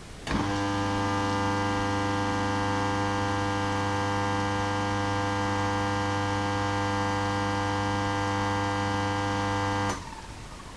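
Electric coffee grinder's motor running empty, with no beans going through its burrs: a steady, even hum that switches on about a third of a second in and cuts off about a second before the end.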